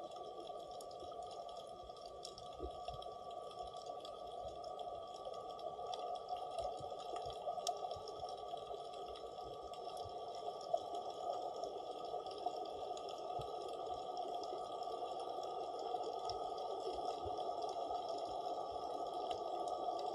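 Underwater ambience heard through a submerged camera: a steady, muffled hiss with faint scattered clicks.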